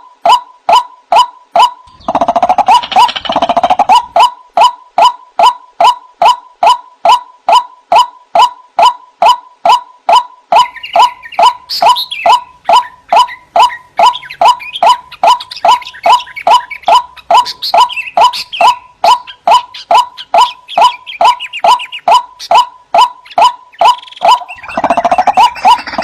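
White-breasted waterhen calls: a monotonous repeated note, a little over two a second. Bursts of louder, harsher overlapping calling come near the start and again near the end, and fainter higher chatter runs through the middle.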